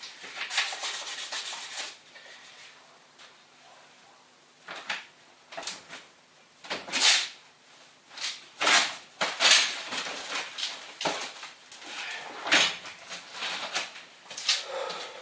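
Short rubbing and scraping strokes of hands working on metal parts, coming every second or two with quieter gaps between.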